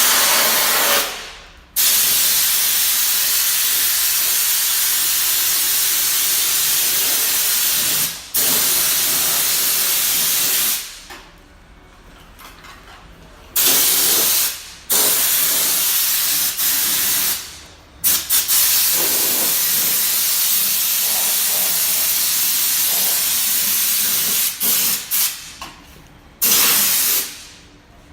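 Compressed air hissing from a pneumatic spray or blow gun in long bursts of several seconds, each switched on and cut off abruptly, with short pauses between.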